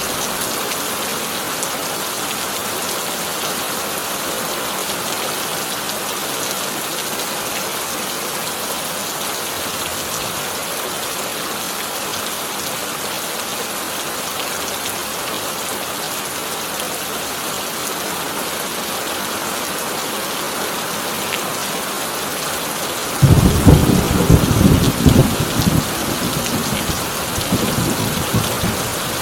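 Heavy rain drumming steadily on a corrugated tin roof. About 23 seconds in, a sudden loud thunderclap breaks out and rolls on in rumbles until the end.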